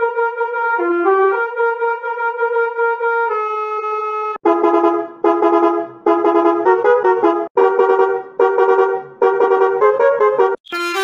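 A brassy, trumpet-like horn playing a tune: held notes stepping up and down for about four seconds, then a run of short, choppy notes broken by brief gaps.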